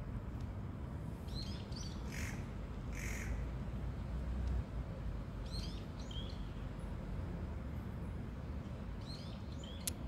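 A songbird chirps in three short bursts of quick high notes, with two harsh, scratchy calls in between early on, over a steady low background rumble.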